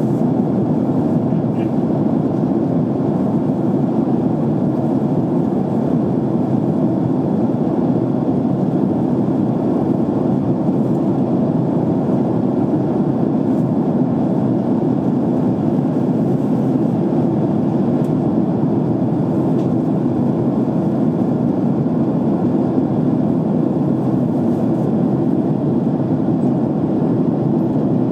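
Steady cabin noise inside a jet airliner in flight: an even engine and airflow rumble.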